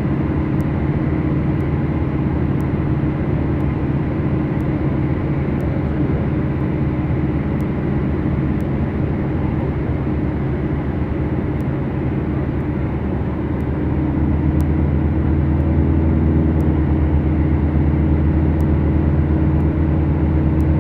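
Beechcraft Duchess's twin four-cylinder Lycoming piston engines running steadily, heard from inside the cockpit, with propeller and cabin noise. The drone gets a little louder about fourteen seconds in as power is added.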